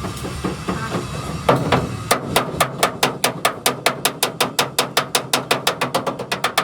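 A hammer striking metal in a fast, steady rhythm of about six blows a second, starting about two seconds in. This is typical of panel-beating a truck cab's sheet metal.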